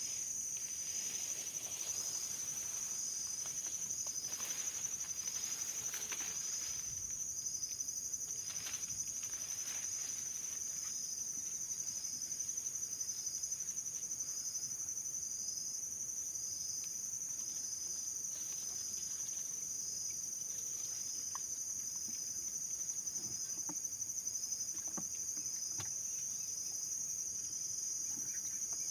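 Insects singing: a steady high-pitched drone, with a shorter chirp repeating about once a second just beneath it.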